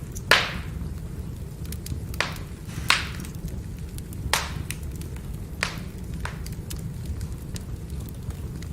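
Firewood burning: a steady low rumble of the fire, with about six sharp pops and many faint crackling ticks from the burning wood.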